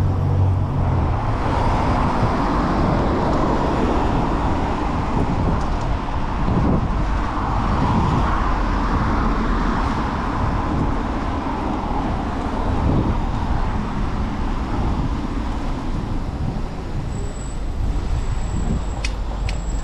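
Steady city traffic and road noise heard while riding along a downtown street: a continuous rush of passing cars and tyres, with an engine hum at the very start and a few sharp clicks near the end.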